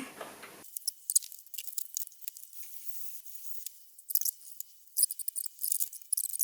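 Light metallic scratching and clicking from cleaning up the threads on a wiper-mechanism part, in short irregular scrapes that bunch together about four seconds in and again near the end.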